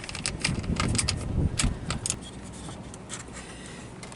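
Irregular metallic clicks and clinks of a wrench and nuts on battery terminal studs as battery cables are being fastened, busiest in the first two seconds and then sparser.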